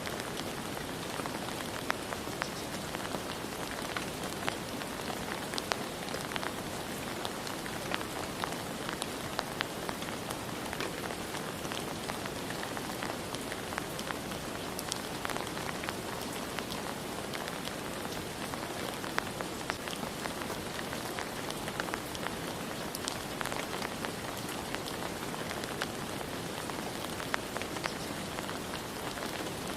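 Steady rain falling, an even hiss with many separate drops ticking close by.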